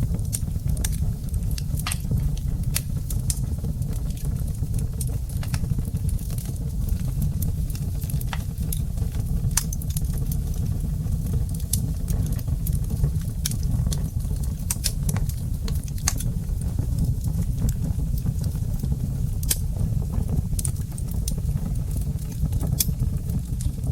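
Wood fire crackling in a fireplace: irregular sharp pops and snaps, several a second at times, over a steady low rumble of the burning.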